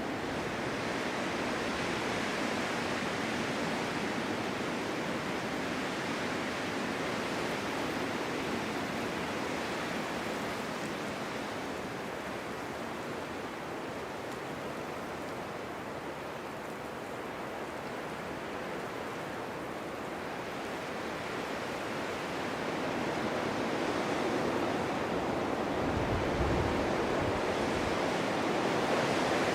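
Winter wind blowing in a snowstorm: a steady rushing noise that eases through the middle and builds again near the end, where a gust briefly adds a low rumble.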